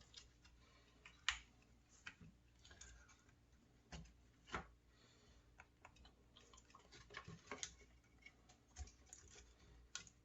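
Faint scattered clicks and light scrapes of small plastic and metal parts being handled, as the brush holder plate is worked out of a router's motor housing.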